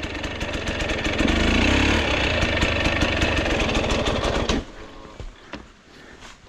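Dirt bike engine running, then cutting out abruptly about four and a half seconds in. After that come only a few faint knocks.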